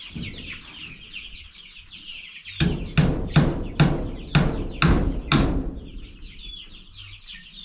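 Many young chicks peeping without a break. About two and a half seconds in come seven loud hammer blows on wood, roughly two a second, each with a short ringing tail.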